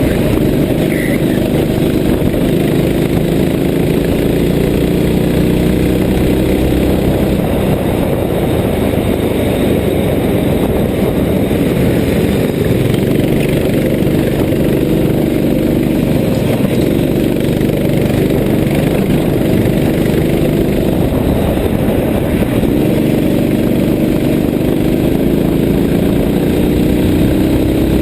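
Racing go-kart engine running hard, its pitch rising and falling as it speeds up and slows, and climbing again near the end.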